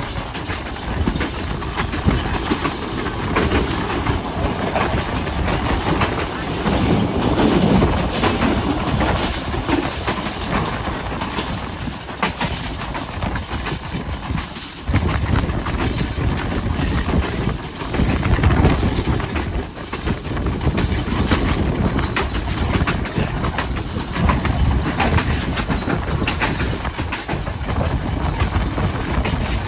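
Passenger train running, its wheels clattering over the rail joints over a steady rumble. The sound gets suddenly louder about halfway through.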